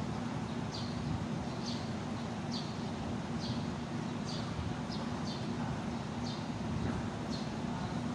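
A bird gives a short, high, falling chirp about once a second, over a steady low hum of outdoor background noise.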